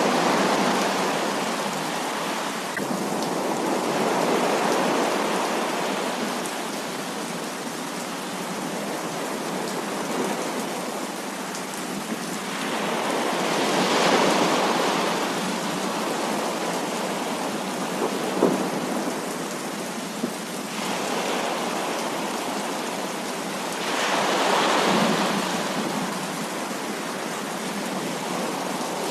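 Heavy rain pouring steadily, its rush swelling louder and easing off several times, with a couple of sharp ticks of drops on a hard surface.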